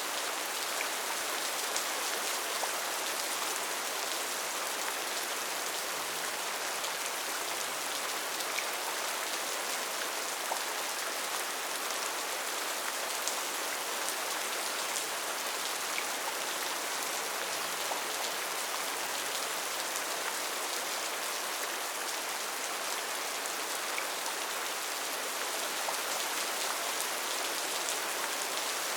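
Steady rain falling on rainforest foliage, an even hiss with scattered individual drops ticking through it.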